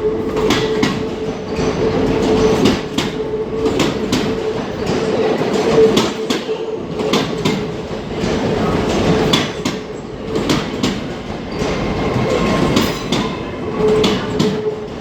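A Class 800 train running through the station. Its wheels clack sharply and irregularly over rail joints and points, over a steady humming tone.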